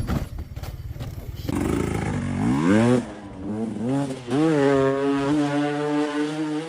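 Motorcycle engine running roughly, then revved in several quick rising blips about two and a half seconds in, and held at high revs.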